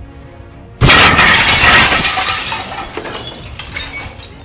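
A sudden, very loud crash of something breaking, about a second in, dying away over a few seconds with scattered clinks and rattles of debris, over background music.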